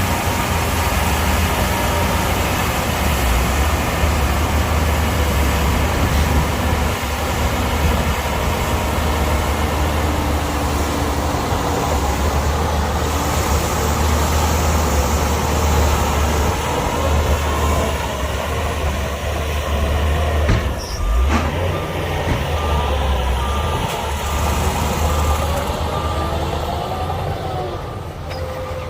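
Heavy diesel earthmoving machinery running under load, its engine rising and falling in pitch. About two-thirds of the way in there is a sudden loud burst, then a reversing alarm beeps steadily for several seconds.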